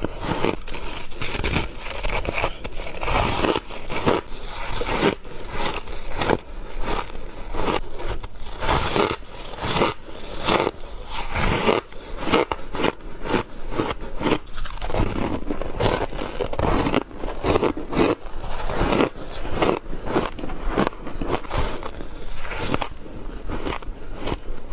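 Close-miked bites into squeaky freezer frost: a dense, continuous run of crunching and squeaking as the packed frost is bitten and broken.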